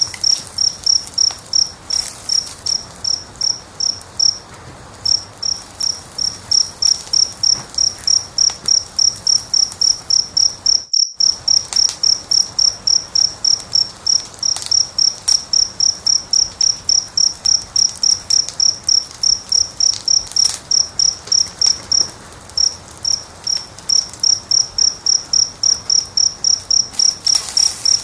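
A cricket chirping in a steady rhythm, about three high chirps a second, pausing briefly twice, over faint crackling of a fire. All sound cuts out for an instant about eleven seconds in.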